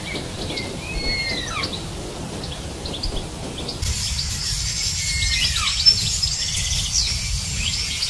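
Birds calling in forest ambience: several whistled calls that slide downward in pitch, mixed with short chirps. About four seconds in, the background changes to a dense, steady high hiss with more chirps and another falling whistle.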